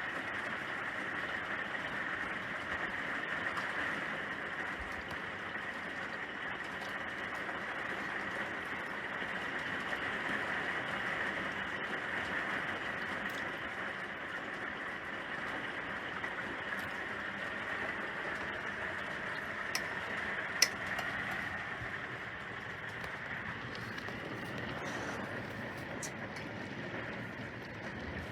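Steady rain, an even hiss, with scattered small taps of drops and one sharper tap about twenty seconds in.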